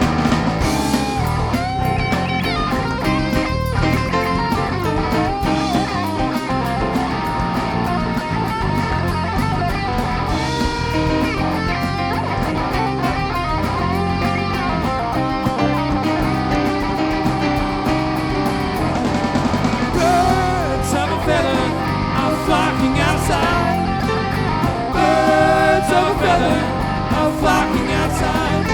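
Live rock band playing, with an electric guitar lead over bass and drums.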